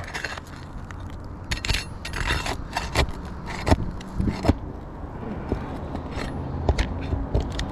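Steel flat bar working under asphalt shingles to reach and pry out a roofing nail: irregular metal clicks and short scrapes, busiest in the middle, over a steady low hum.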